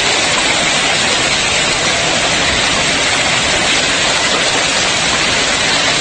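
Dense, steady hiss of a heavy storm downpour, with no single impacts standing out.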